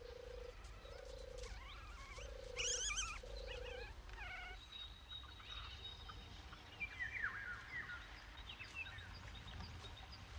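Faint birdsong: a low call repeated four times at about one per second, with high warbling songbird chirps around and after it.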